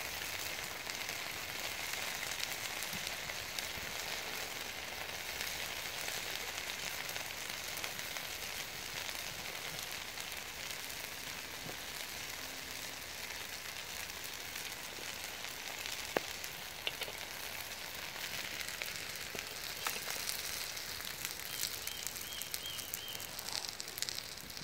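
Steady sizzle of food frying over a wood fire, with a few sharp crackles from the burning wood.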